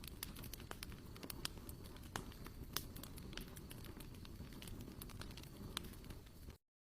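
Wood campfire crackling, with irregular sharp pops over a low steady rumble; it cuts off suddenly near the end.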